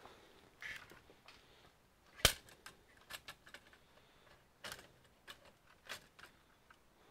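Irregular light clicks and taps of computer parts being handled during disassembly, with one sharp, louder click a little over two seconds in.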